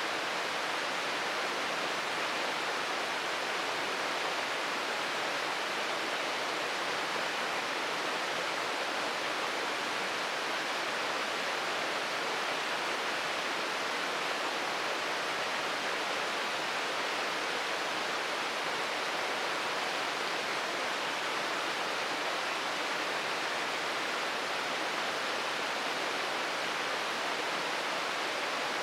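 Shirogane Falls, a waterfall, giving a steady, unbroken rush of falling water that never rises or falls.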